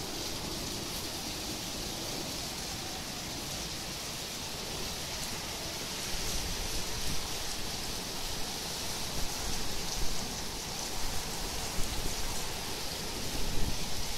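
Heavy downpour: a steady, dense rain hiss, with uneven low rumbles growing louder from about six seconds in.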